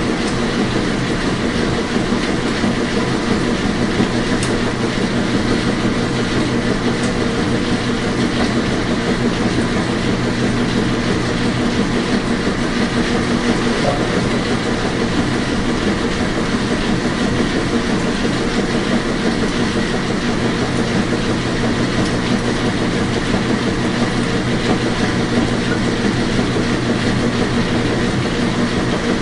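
Washing machine running: a steady, unchanging hum and rumble with a hiss of noise over it.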